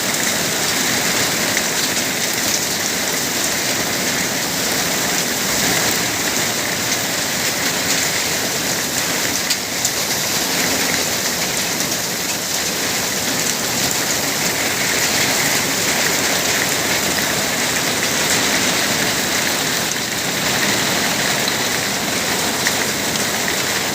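Heavy rain falling steadily on hard surfaces, a dense unbroken hiss of drops.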